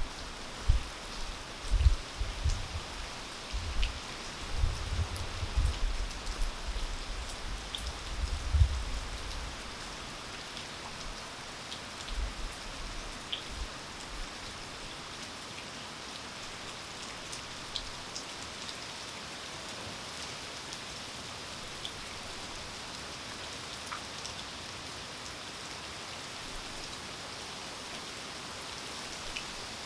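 Steady rain falling, an even hiss with occasional single drips ticking. Through the first nine seconds or so, loud low thumps come and go over the rain.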